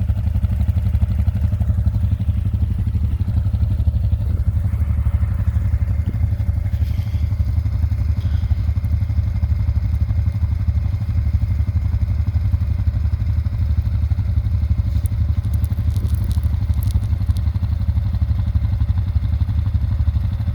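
ATV engine running steadily with an even low drone, with a few faint light ticks about three-quarters of the way through.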